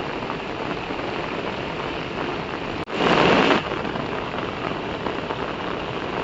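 Steady rushing water noise, broken by a brief cut just before three seconds in and followed by a louder rush lasting under a second.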